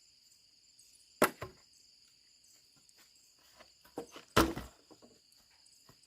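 A few sharp knocks: two close together about a second in, and a louder group of three a little after four seconds in. Behind them runs the steady high drone of insects.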